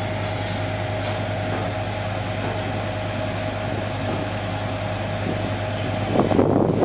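Engine running with a steady drone and a constant whine. About six seconds in, wind starts buffeting the microphone.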